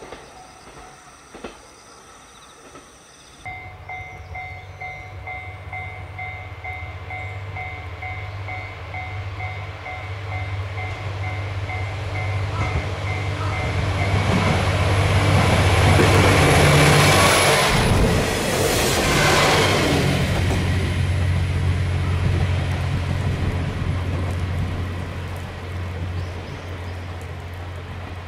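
A train passing: a low rumble builds to its loudest about two-thirds of the way through, then settles to a steady low rumble. A repeating beep, about three a second, sounds through the first half and stops as the train draws near.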